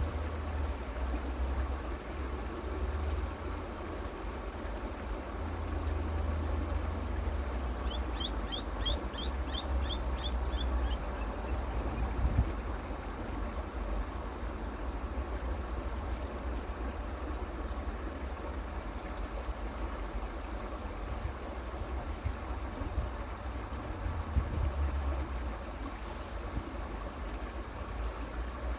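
Creek water running steadily over the streambed. About a third of the way in there is a quick run of about nine short high chirps, and a single brief knock shortly after.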